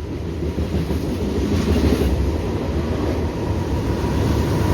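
Freight train cars rolling past directly underneath: a steady rumble of wheels on rail that grows louder toward the end as the mid-train DPU locomotive approaches.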